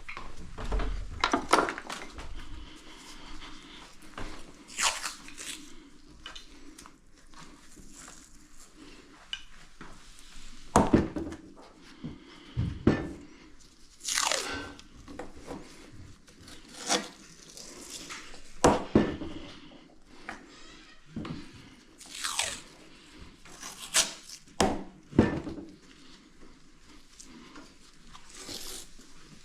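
Hand-working noises: irregular knocks, clicks and crunching or rustling as parts and materials are handled, a dozen or so sharper knocks spread through the stretch.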